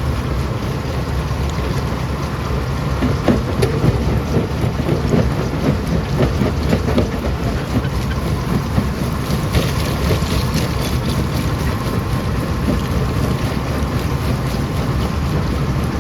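Stone crusher running with a steady heavy rumble, with scattered sharp knocks of rock being broken, most of them a few seconds in and again about ten seconds in.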